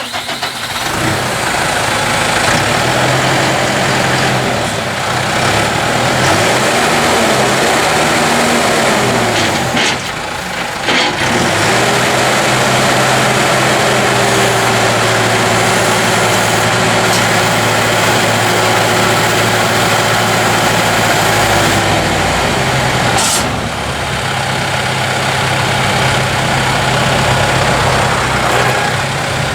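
New Holland T4.75 tractor's four-cylinder turbo diesel engine running, its speed rising and falling in the first third and then holding steady, with two short sharp noises, one about a third in and one near the end.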